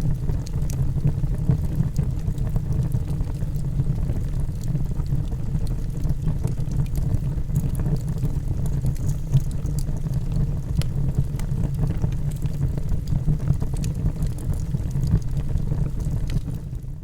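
Log fire burning in a fireplace: a steady low rumble of flames with scattered small crackles, fading out just at the end.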